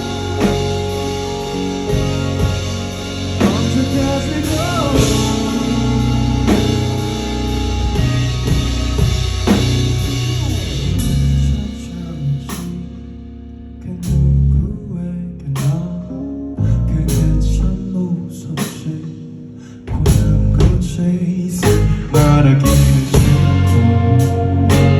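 Live rock band playing with electric guitar, bass and drums. About halfway through the band drops back to sparse hits, then crashes back in at full volume near the end.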